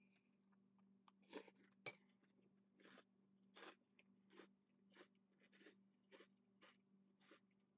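A person chewing crunchy food from a bowl, steady chews about one and a half times a second. Two sharper clicks near the start are the loudest sounds. A faint steady hum runs underneath.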